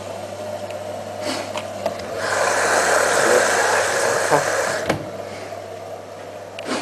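Privileg Ergonomic 1600 S washing machine running with a steady hum, its drum bearing badly worn. A louder rushing noise swells for about two and a half seconds in the middle, with a few light clicks.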